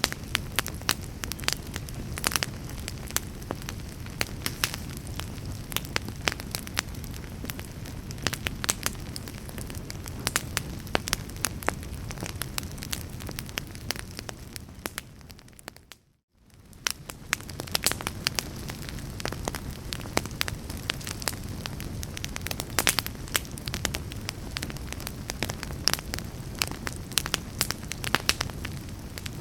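Crackling wood fire in a fireplace: frequent sharp pops and snaps over a steady low rumble of burning. About halfway through, the sound fades out to near silence for a moment and then fades back in.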